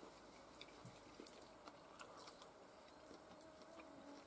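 Near silence, with faint scattered clicks of chewing.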